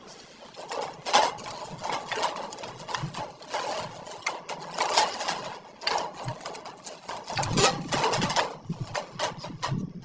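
Irregular clattering knocks and clacks of campfire gear being handled and set in place, a few sharp strikes a second with short gaps.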